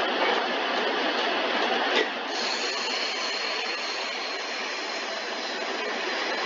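Water spray and machinery in a Sonny's/PECO car wash tunnel making a steady hiss, with a single sharp knock about two seconds in.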